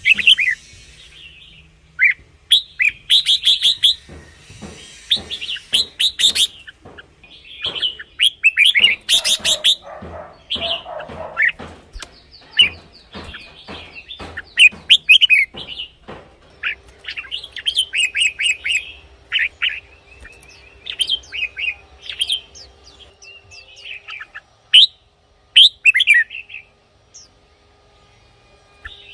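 Red-whiskered bulbul singing: bursts of short, quick whistled phrases repeated with gaps between them. Through the first half, a run of sharp clicks comes in among the song.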